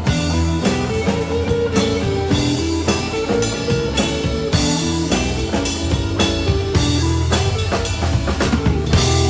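Live rock band playing an instrumental passage: drum kit keeping a steady beat under electric guitar and bass. Near the end the drums stop and a chord rings on.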